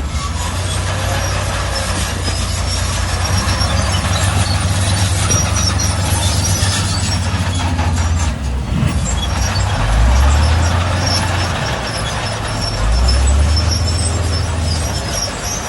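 Crawler bulldozer's diesel engine working under load, its note rising briefly about ten seconds in and again about thirteen seconds in, with scattered high squeaks over the top.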